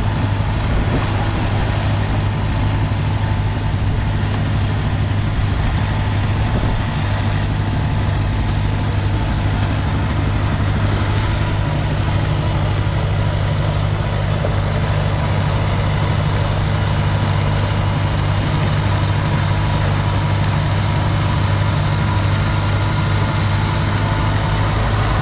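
Engine running steadily at one constant speed, a low even drone with no rise or fall in pitch.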